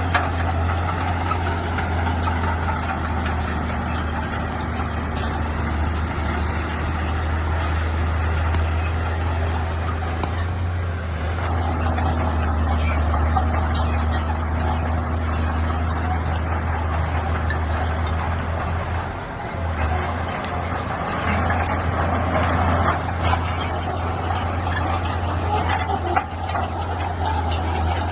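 Heavy diesel earthmoving machinery running steadily under load, a deep constant engine hum with scattered sharp clanks over it.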